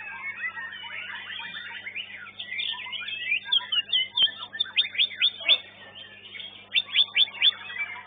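Songbird singing: a fast stream of chirps and sharp, steep whistled notes, with two loud runs of rapid notes, one near the middle and one near the end, over a low steady hum.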